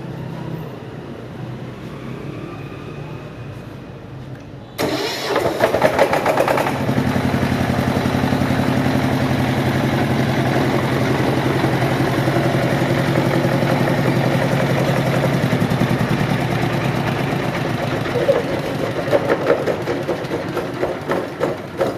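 Jiang Dong JD30 single-cylinder diesel engine started with its electric starter: a sudden cranking burst about five seconds in, the engine catching within a couple of seconds and then running steadily. Toward the end the running turns uneven, with some louder beats.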